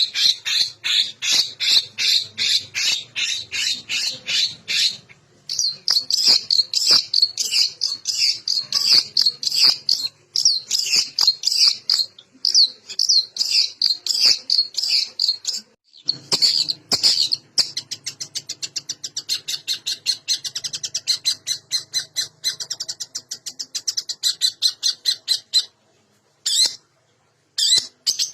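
Long-tailed shrike (cendet) singing a loud, rapid burst song of harsh, scratchy repeated notes, full of phrases mimicked from other birds. It comes in long runs broken by brief pauses, with a faster chattering stretch in the second half, before breaking off into a few scattered notes near the end.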